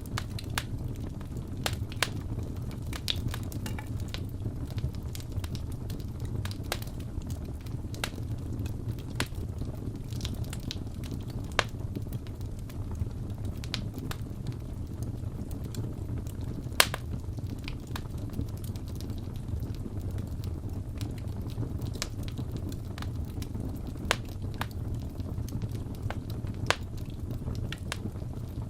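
Crackling wood fire: a steady low rumble of burning with irregular sharp pops and crackles, a few louder pops scattered through, the loudest about seventeen seconds in.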